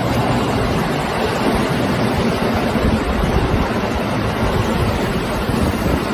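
Sanyo Electric Railway 5030-series electric train passing through an underground station at speed without stopping: a steady, loud rushing rumble of wheels on rail and moving air, echoing off the platform walls.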